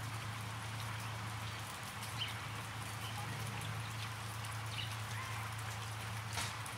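Light rain falling, heard as a steady patter, over a steady low engine hum in the background. A brief click comes near the end.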